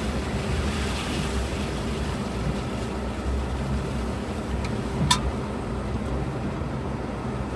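Steady rumble of road traffic, vehicles running past, with one sharp short click or squeak about five seconds in.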